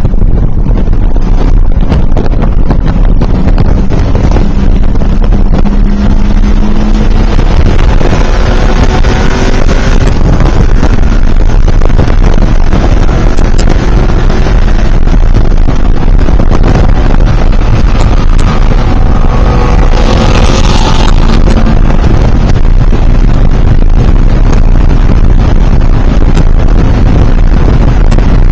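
A car's engine and road noise heard from inside the cabin while driving at speed on a race track. It is loud and steady, and the engine note climbs and falls with the throttle in places.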